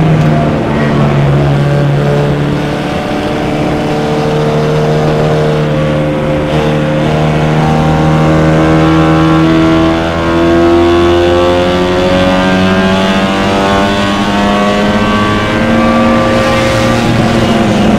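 An MG race car's four-cylinder engine running hard, heard from the cockpit. Its pitch climbs slowly, dips briefly about ten seconds in, climbs again, and drops near the end.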